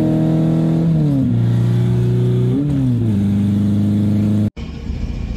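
A car engine heard from inside the cabin while driving and accelerating. Its pitch drops about a second in and again around three seconds in, as it shifts up. It cuts off abruptly about four and a half seconds in.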